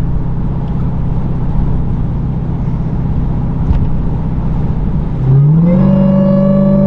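Supercharged 6.2-litre HEMI V8 of a 2023 Dodge Durango SRT Hellcat with its mufflers cut off, running steadily while driving. A little past five seconds in, the revs climb quickly, then hold at a higher, louder pitch.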